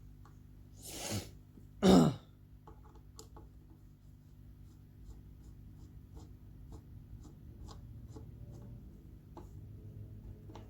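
A person coughs twice, the second cough louder, followed by faint scattered clicks and taps of handling.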